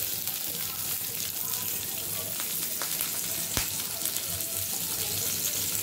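Pale green chillies frying in oil in a small pan over a gas flame, a steady crackling sizzle. One sharp tap sounds about three and a half seconds in.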